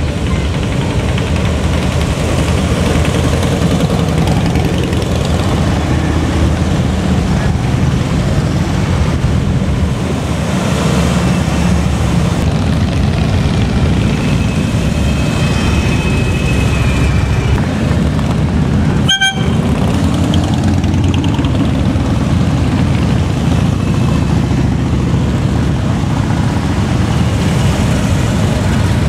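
A steady stream of motorcycles running past in a parade, a loud continuous engine rumble. A horn toots about halfway through.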